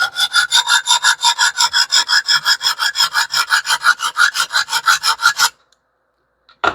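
Sharpening stone on a TS Prof Kadet Pro guided-rod sharpener rubbed quickly back and forth along a small cleaver's edge, several strokes a second in an even rhythm, while a burr is being raised. The strokes stop about five and a half seconds in, and one short knock follows near the end.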